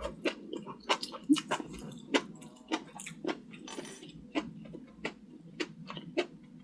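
A person chewing food close to the microphone, most likely fried enoki mushrooms: irregular wet mouth clicks and smacks, two or three a second.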